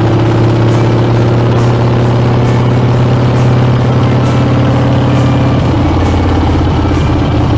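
Harley-Davidson Dyna's V-twin engine running through Screamin' Eagle mufflers, holding a steady note. The engine note changes a little under six seconds in.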